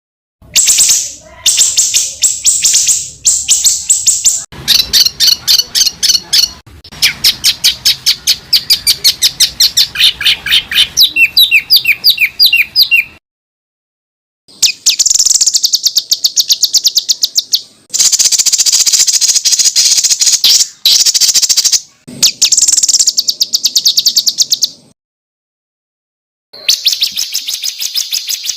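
Songbird masteran recording of rapid-fire 'tembakan' song: bursts of fast repeated high, sharp notes lasting a few seconds each, broken by brief pauses. It is the kind of dense tutor song played to competition birds so they learn it as song material.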